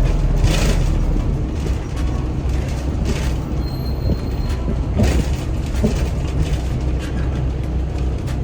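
Wind buffeting the microphone: a steady low rumble with stronger gusts of rushing noise about half a second, three seconds and five seconds in.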